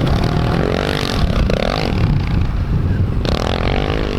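Dirt bike engines revving and running, rising and falling in pitch over a heavy, uneven low rumble.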